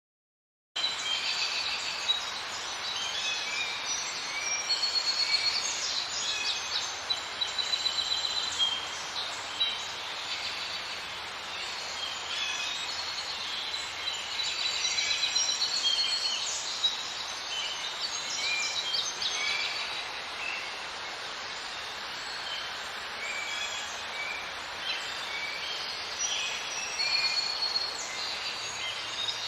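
Many high, short bird chirps and peeps overlapping over a steady outdoor hiss, beginning about a second in.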